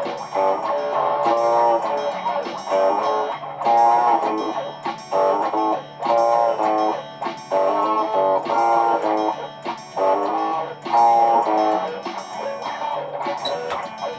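Layered electric guitar loops: strummed and picked chords repeating in a steady pattern over a low, stepping bass line.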